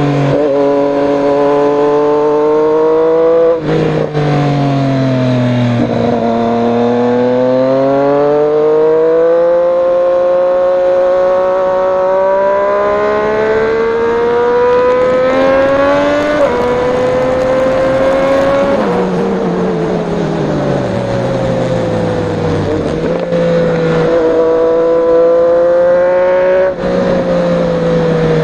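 Triumph Street Triple 765 RS's three-cylinder engine running through an Austin Racing de-cat slip-on exhaust while being ridden. Its pitch climbs steadily for several seconds at a time, then drops in steps at gear changes and when the rider backs off the throttle.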